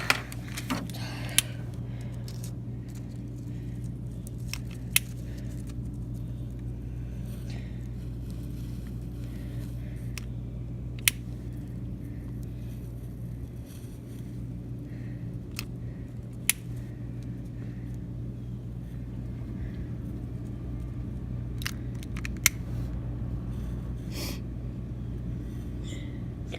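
A handheld lighter being clicked now and then, about six sharp clicks several seconds apart, with light handling and scraping, over a steady low hum.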